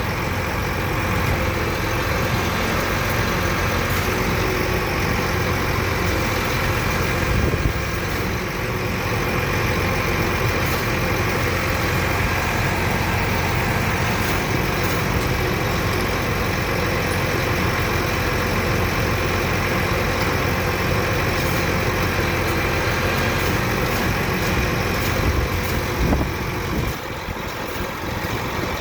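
Heavy truck's diesel engine idling steadily, its low hum dropping somewhat near the end.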